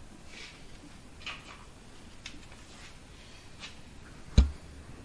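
Handling noises: a few faint brief rustles, then one sharp knock about four and a half seconds in.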